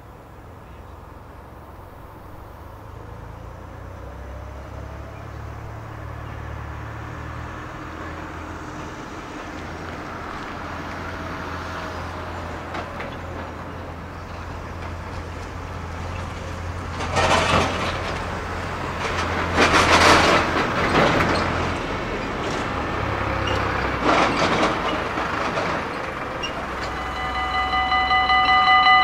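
Rumble of an approaching train building steadily louder, with stronger rushes of noise in the second half. About two seconds before the end the electronic level-crossing warning bell starts ringing as the crossing activates.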